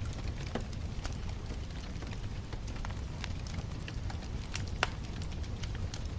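Wood bonfire burning: irregular crackles and snaps over a steady low rumble, with the sharpest pop about five seconds in.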